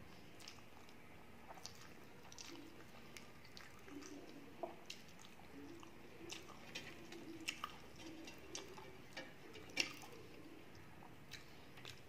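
Close-up chewing of a mouthful of rice and fried fish, with soft wet mouth clicks and smacks at irregular intervals. The sharpest click comes about ten seconds in.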